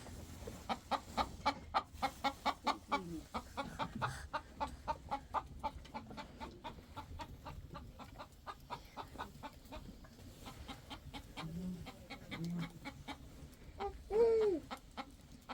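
Chickens clucking in a rapid run of short, repeated clucks, with a louder rising-and-falling call near the end.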